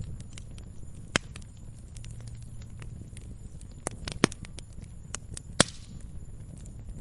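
Wood fire in a fireplace crackling, with irregular sharp pops, the loudest about a second in, at about four seconds and near six seconds, over a low steady rumble of the flames.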